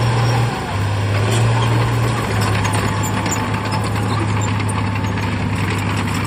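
Heavy diesel engine of earthmoving machinery running steadily, its pitch stepping down slightly about half a second in, with a continuous clatter of metal and material over it.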